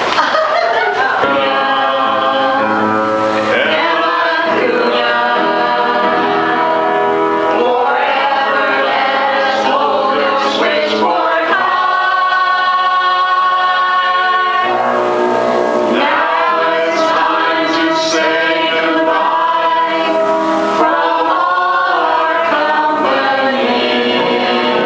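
Choir singing with music, held sung notes throughout.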